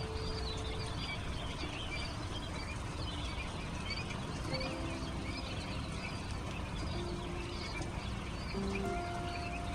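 A crowd of baby chicks and quail chicks peeping, with many short high chirps overlapping throughout. Soft background music with long held notes runs underneath.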